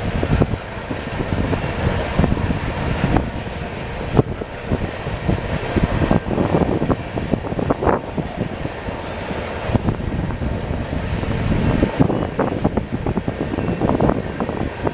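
Freight train rolling past, its steel wheels clattering with frequent irregular clicks and knocks over the rail.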